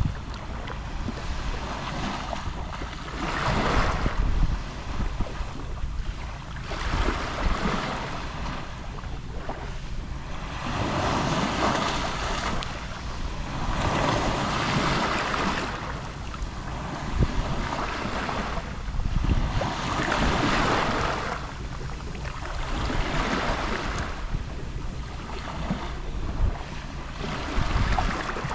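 Gentle waves lapping on the Mediterranean shore, each wash swelling and fading every three or four seconds, over a steady low rumble of wind on the microphone.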